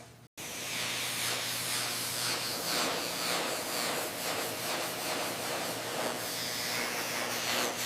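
A steady hissing noise with a faint low hum beneath it, cutting in abruptly just after the start.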